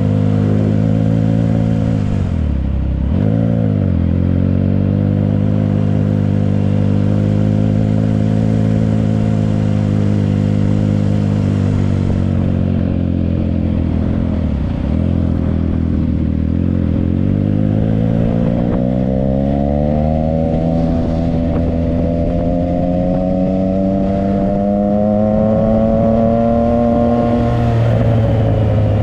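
Triumph Trident 660's inline three-cylinder engine through a Yoshimura exhaust, running on the road. Its pitch drops sharply and picks back up at gear changes about three seconds in and again about halfway through. It then climbs steadily as the bike accelerates, with another shift near the end.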